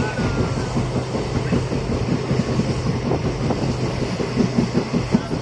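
Passenger train running, heard from aboard the carriage: a steady rumble and low hum with dense, quick rattling and clatter of the wheels and coach.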